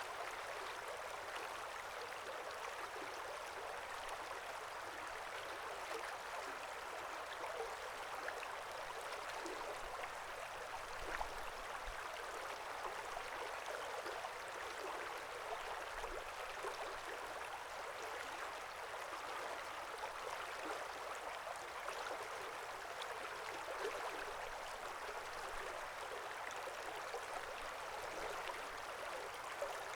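Small brook flowing steadily over a creek bed, a continuous babbling of water with light splashes throughout and no deep rumble.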